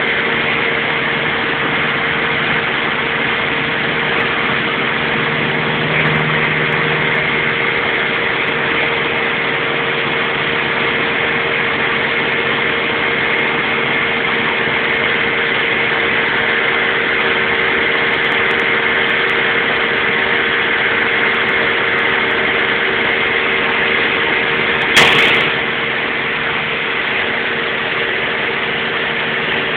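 Motorboat engine running steadily under way, an even drone that holds the same pitch. A short sharp knock cuts through it near the end.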